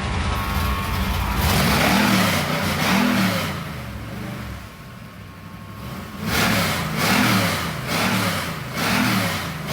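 1966 Chevrolet C-10 pickup's engine being revved in short blips, about six rises and falls in engine speed, settling to a quieter idle for a couple of seconds in the middle.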